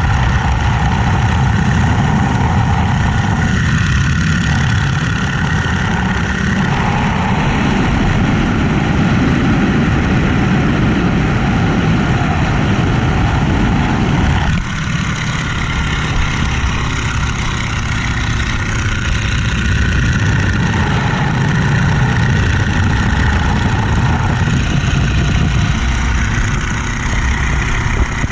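Boeing-Stearman Model 75 biplane's radial engine running in flight, heard with the rush of air over the open cockpit. The tone changes about halfway through and the sound dips slightly.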